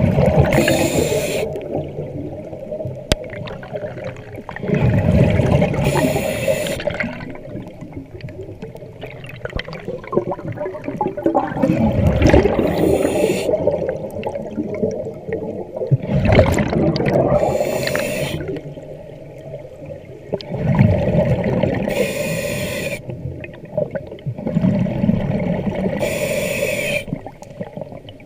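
A diver breathing through a diving regulator underwater: a hissing inhalation alternating with a low bubbling exhalation, about every four to five seconds, over a steady hum.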